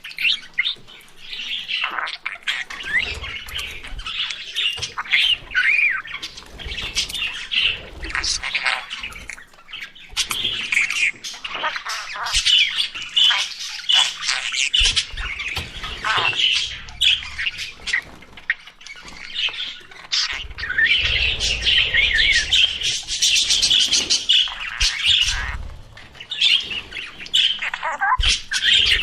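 Budgerigars chirping and chattering in a steady, busy warble of quick high chirps and squawks, with occasional low thumps under it.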